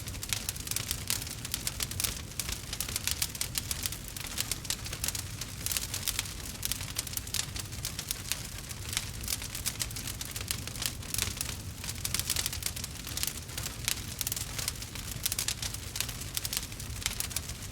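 Wood fire burning with dense, irregular crackling and small pops over a steady low rumble.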